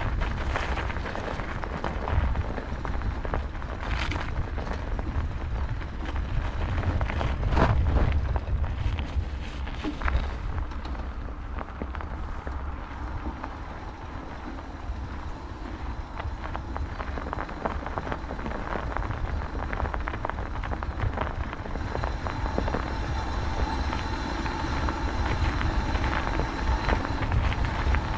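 Bicycle riding noise: wind buffeting the microphone in a steady low rumble, with tyres rolling over a rough track and scattered knocks and rattles from bumps, the heaviest about eight seconds in.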